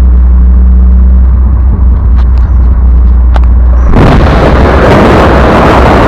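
Golf 1's 2.0 8-valve engine on twin Weber 40DCOE carburettors, running loud through a Supersprint exhaust with 4-2-1 headers: a deep steady rumble with a few sharp pops, then from about four seconds in a much louder, rough roar.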